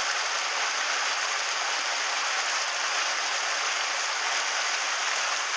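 Mountain stream water rushing steadily over rocks, an even hiss with no break.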